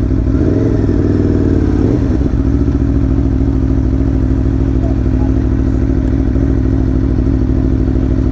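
Motorcycle engine running steadily at low revs, with a short rise and fall in pitch about half a second to two seconds in.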